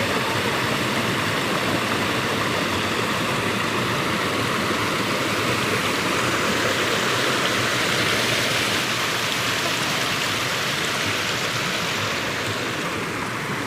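Rushing water in a valley, a steady even rush that thins a little near the end.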